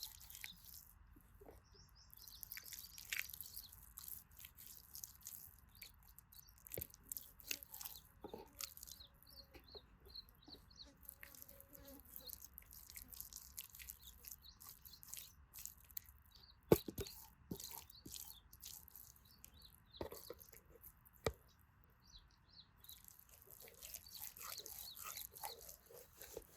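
Faint wood campfire crackling, with scattered small pops, one sharp snap about two-thirds of the way in, and bouts of soft hiss from fish grilling on a grate over the fire. Faint bird chirps may sound in the background.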